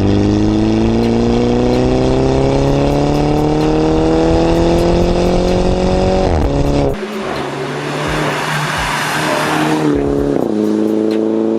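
Turbocharged 2-litre four-cylinder engine of a Mini Cooper S with a Remus cat-back exhaust, accelerating hard: the note climbs steadily through one gear for about six seconds, drops at a gear change, gives way to a few seconds of rough rasping noise, then pulls again near the end.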